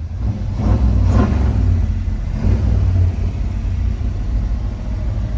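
Ford 351 V8 engine of a 1977 F150 pickup running at idle, with a steady low hum. It gets louder about a second in.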